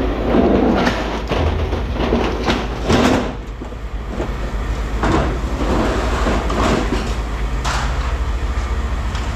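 Pieces of scrap metal clanking and clattering as they are handled and tossed during sorting, in irregular knocks several times over, above a steady low hum.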